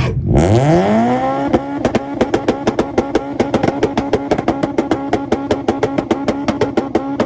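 A red Acura's engine revs up quickly and then holds on its two-step launch-control rev limiter, popping and cracking about seven times a second. It cuts off near the end and the revs fall away.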